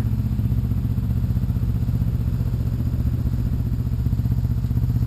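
Motorcycle engine idling steadily, a low, even pulsing.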